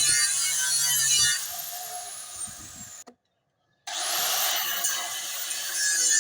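Angle grinder cutting into a steel gas cylinder: a harsh, hissing grind with a high whine. The sound breaks off to dead silence about three seconds in, then resumes with the whine rising and holding steady. Background music plays at the start.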